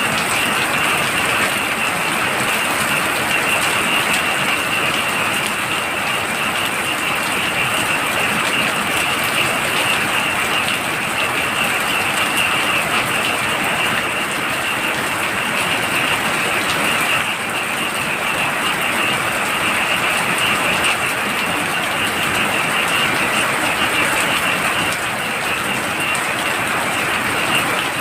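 Heavy rain pouring steadily, with a continuous high chorus of frogs calling through it.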